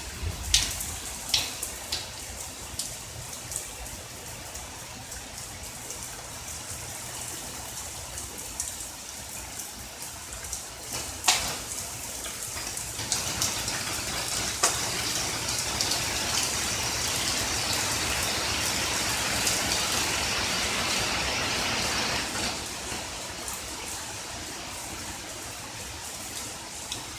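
Steady rain falling, with single drops striking close by as sharp taps. The downpour grows heavier about halfway through, then eases again near the end.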